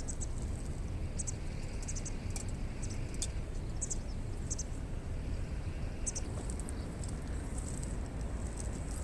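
Campfire burning, with short, sharp, high crackles scattered irregularly over a steady low rumble.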